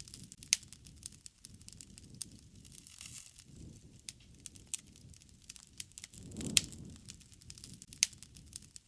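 Wood fire crackling, with sharp pops at irregular intervals over a low rush of flames that swells twice, briefly around the middle and more strongly about two-thirds of the way through.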